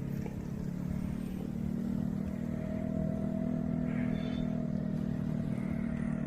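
A motor vehicle's engine running steadily with a low hum, a higher whine joining from about two and a half seconds in.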